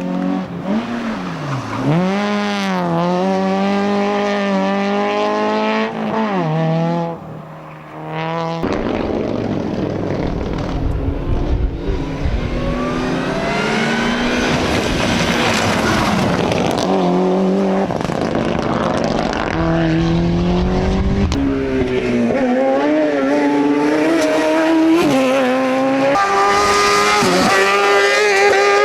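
Hillclimb race cars at full throttle: engines revving up and dropping back through gear changes, over and over, with tyre noise as cars go by. About nine seconds in, the sound switches abruptly to a louder, noisier pass.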